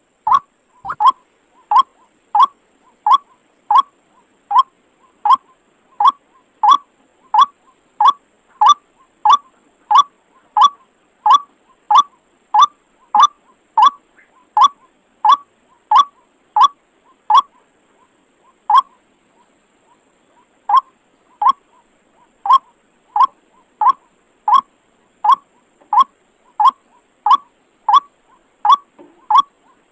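White-breasted waterhen (ruak-ruak) calling: a long series of short, identical notes, about three every two seconds, with a short break about two-thirds of the way through.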